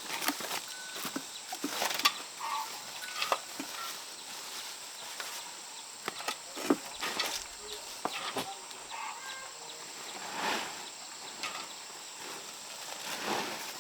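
Irregular knocks and scraping sounds with a few brief high chirps, which may be poultry or small birds.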